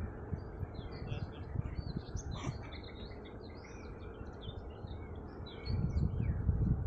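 Small birds chirping and singing, many short quick calls overlapping, over a low rumble that grows louder near the end.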